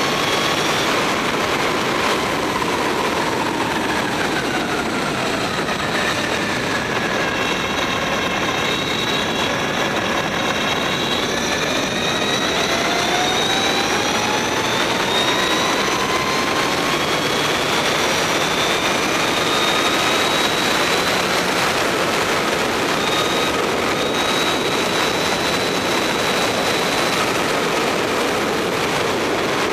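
Mavizen TTX02 electric racing motorcycle at speed: the electric motor and drivetrain whine, rising and falling in pitch as the bike slows and accelerates, over a steady rush of wind noise.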